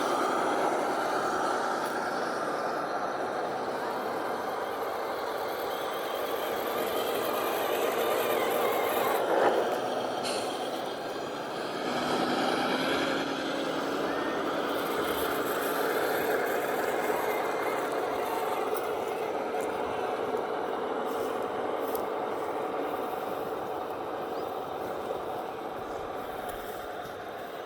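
1/10-scale RC model trucks driving in a convoy, their electric drive motors and gearboxes running with a steady whine that shifts in pitch as the throttle changes. There is a brief louder moment about nine seconds in, and the sound fades slowly near the end.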